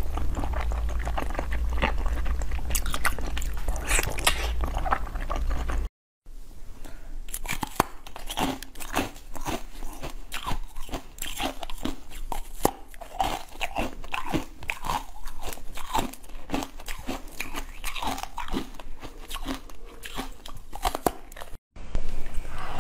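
Close-miked biting and chewing of gelatin jelly sweets: many short, wet bites and chews in quick succession. The sound breaks off in two brief silences, about six seconds in and near the end, where one eating clip is cut to the next.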